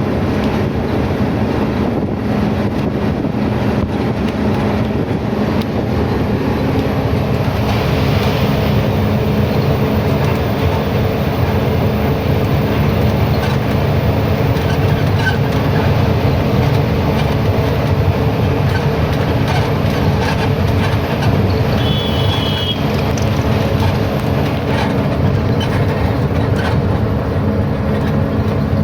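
Truck driving on the highway: a steady low engine drone with road and wind noise, holding an even level.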